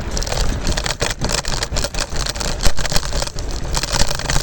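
Scooter riding over a road surface: a steady low rumble of wind and wheel noise on the microphone, broken by frequent rattles and knocks.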